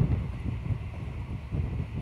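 Passenger train running along the track at speed, recorded from the side of the moving coach: a steady low rumble of wheels on rails, mixed with wind buffeting the microphone.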